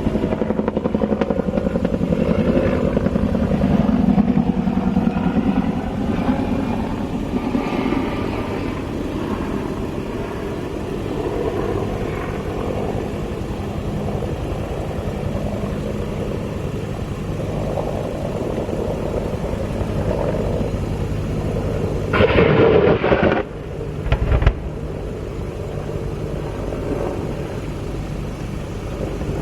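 Helicopter flying overhead, its rotor and turbine running steadily with a rapid pulsing beat. About 22 seconds in comes a loud burst lasting about a second, followed by a shorter one.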